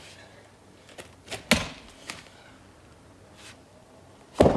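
An axe striking into a log of firewood twice, about three seconds apart, with a lighter knock just before the first strike, as the edge is chopped off the log.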